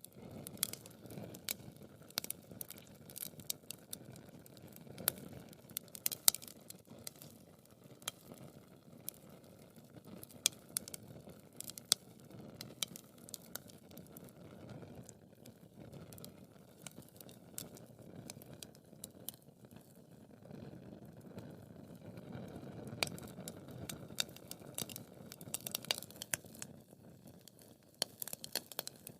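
Wood fire burning in a fireplace, crackling with frequent, irregular sharp pops and snaps over a soft, steady rush of flame.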